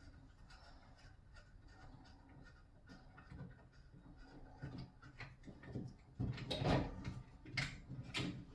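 Handling noise while working on a shower pod with a screwdriver: scattered light clicks and taps, then louder knocks and rubbing about six seconds in.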